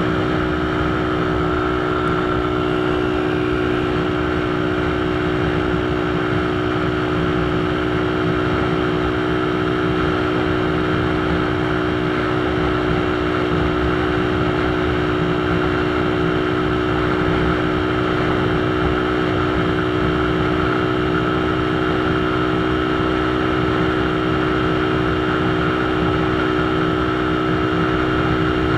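A motor running with a steady hum at one unchanging pitch, over a constant rushing noise.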